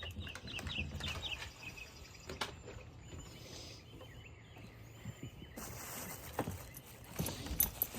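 Birds chirping outdoors: a quick run of short calls in the first second or so, then a few thin high whistles near the middle, with scattered knocks and thumps toward the end.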